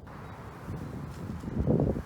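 Wind buffeting the microphone: a low, gusty rumble with no tone in it, growing stronger about a second and a half in.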